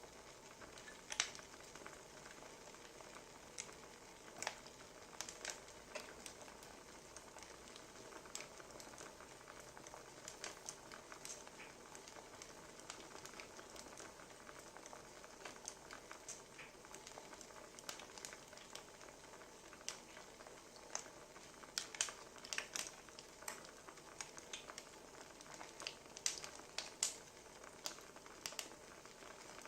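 Wood fire crackling: a faint steady hiss with irregular sharp pops and snaps from the burning logs, a few louder clusters of pops scattered through.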